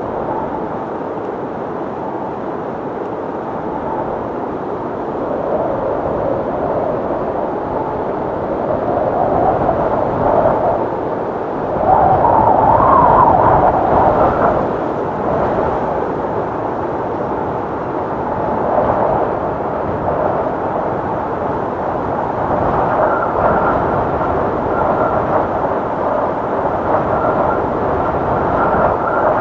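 Howling wind blowing in gusts, its pitch wavering up and down, with the strongest gust about twelve seconds in. Later a faint thin whistle rides above the howl.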